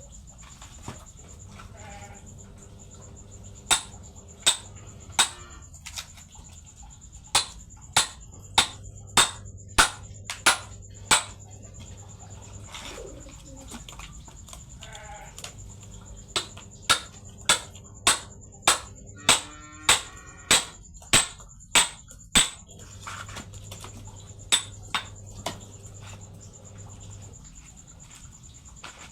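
Sharp knocks of a tool striking firewood as it is split, coming in runs of quick blows about half a second apart: three, then about seven, then about a dozen, then three more.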